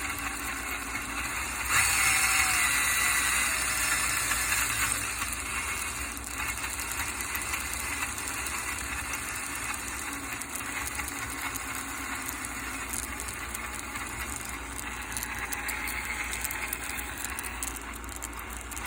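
Axial SCX10 RC crawler's electric motor and drivetrain running with a whir and a rattle, which the owner traced to loose screws and squeaky parts. It gets louder about two seconds in for a few seconds, then settles to a steadier run.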